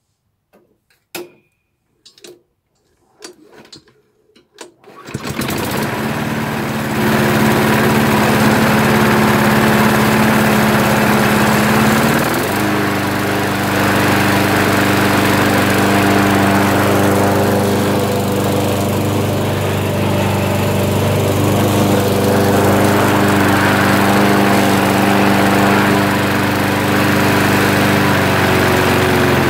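Sanli petrol lawnmower engine being pull-started: a few sharp knocks and pulls, then it catches about five seconds in and runs steadily, stepping up in pitch a few seconds later. It runs again after a sheared flywheel key was fixed, though not yet quite right, which the owner thinks may be the blade.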